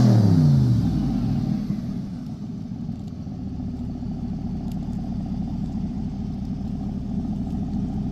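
Chevrolet C8 Corvette Stingray's 6.2-litre LT2 V8 through a Borla ATAK exhaust, its start-up flare dropping in pitch over the first second or two and settling into a steady idle.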